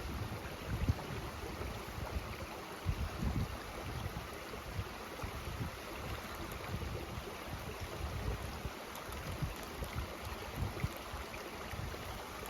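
Mountain stream rushing steadily, with irregular low rumbles of wind buffeting the microphone.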